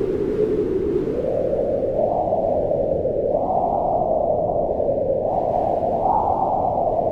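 Strong wind howling, a steady low rush that rises and falls in pitch with slow gusts.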